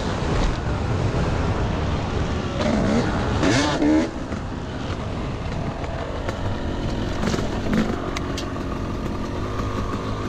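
Yamaha YZ250 two-stroke motocross engine heard from the rider's helmet: it revs up hard about three seconds in, cuts back sharply at about four seconds, then runs at lower, steadier revs.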